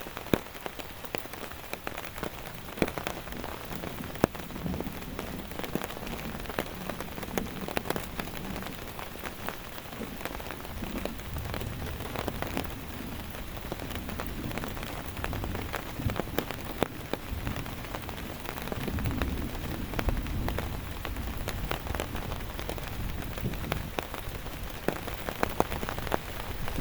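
Heavy rain falling steadily, with many sharp individual drop hits on a nearby surface. A soft low rumble swells and fades twice, in the middle and past two-thirds of the way through.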